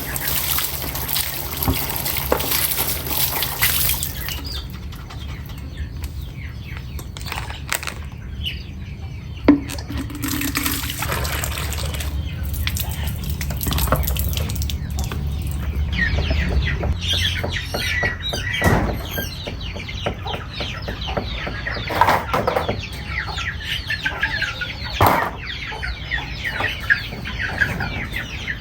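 Hens clucking, the calls thickening in the second half, with a few sharp knocks. A splashing hiss of water runs through the first few seconds.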